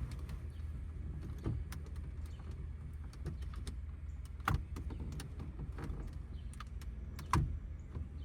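Plastic dashboard trim and the instrument cluster of a 2009 Ford F250 clicking and knocking as they are worked loose by hand, with two louder knocks about halfway through and near the end, over a steady low hum.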